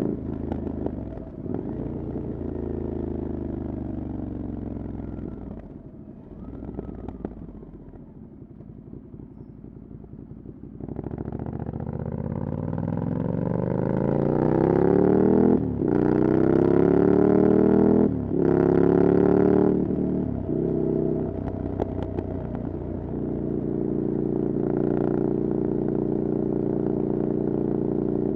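Ducati Scrambler Desert Sled's air-cooled L-twin running through a Leovince exhaust with the dB killer removed, while riding. The revs fall away to a quieter low stretch, then about eleven seconds in the engine revs up hard, broken twice by quick gear changes, before easing off to a steady run.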